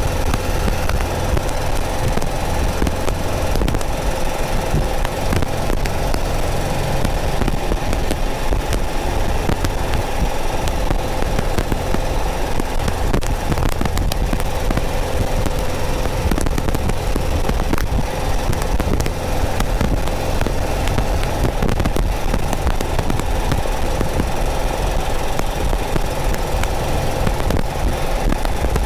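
A Porsche 914's 2.0-litre air-cooled flat-four engine running steadily at cruising speed, heard close from behind the cabin, with a constant low rumble. Light crackling static runs through it.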